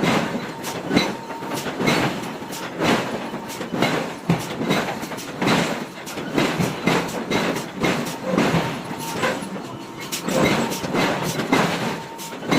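Hammer blows on hot forging iron, a steady run of sharp metallic impacts about two a second, over a faint steady whine.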